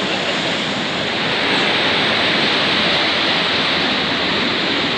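Waterfall pouring into a mountain stream pool: a steady, even rush of falling water.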